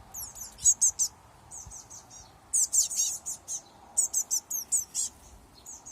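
Blue tit fledglings calling with rapid, high-pitched chirps that come in clusters of several quick notes with short pauses between.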